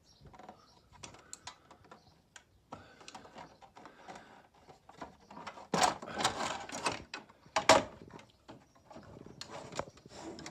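Stairlift chair cover panels being unclipped from their push-fit clips and handled: a run of irregular clicks and knocks, with a louder clatter about six seconds in and a sharp snap near eight seconds.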